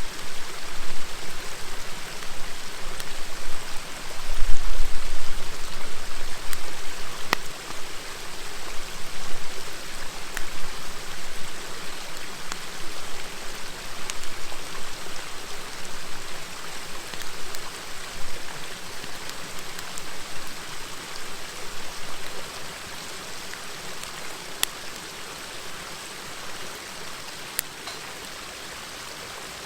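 A river babbling steadily, with a few sharp, sparse crackles from a wood bonfire. A brief low rumble comes about four seconds in.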